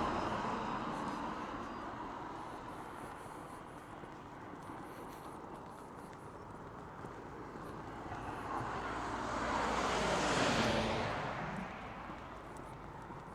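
A vehicle passes by about ten seconds in: its noise builds, peaks, then drops in pitch and fades as it goes away. The tail of an earlier pass fades out at the start.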